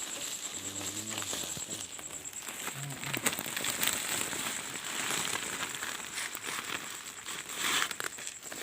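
Close rustling and crackling with scattered clicks, a louder rustle near the end, over a steady high-pitched insect trill.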